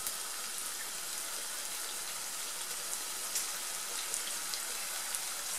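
Chopped onion and vegetables sizzling in oil in a frying pan: a steady hiss with a few scattered faint crackles.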